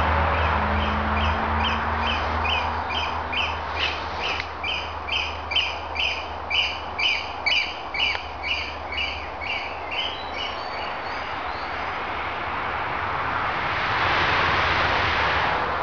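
A bird calling a long run of repeated, evenly spaced notes, about two to three a second, swelling in the middle and fading out about two-thirds of the way through, over a low steady rumble.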